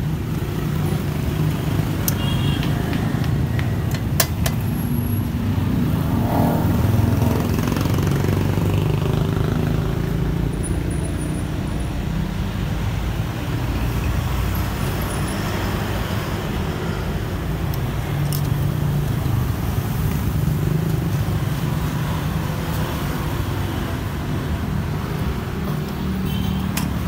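Steady road traffic rumble from passing vehicles, with a few sharp clicks early on.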